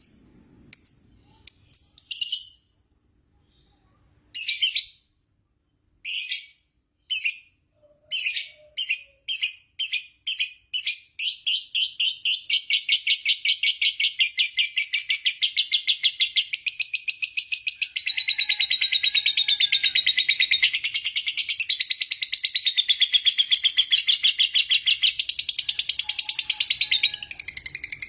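Lovebird in 'ngekek panjang' song: a string of short separate high chirps, then from about eleven seconds in a long, unbroken, very rapid high chatter.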